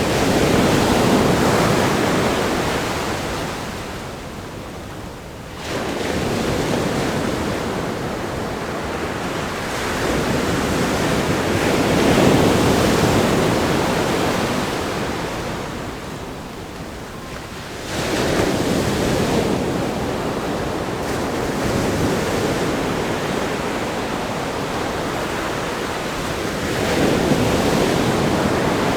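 Ocean waves breaking on a rock groin and washing up a sandy beach, a steady rush of surf that swells and ebbs with each set. Sharper breaks come in at about a third of the way in and again past the middle, and there is a little wind on the microphone.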